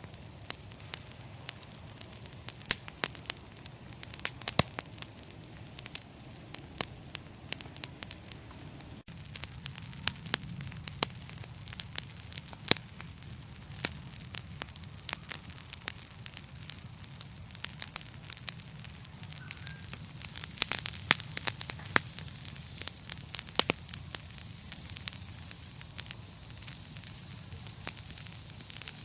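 Fireplace fire crackling: irregular sharp pops and snaps, several a second, over a steady low rumble and hiss of the flames.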